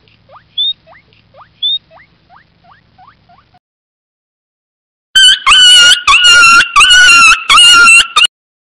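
Otters chirping: a run of faint rising chirps with a few sharper squeaks. After a pause comes a puppy's loud, high-pitched whining, four long cries in a row.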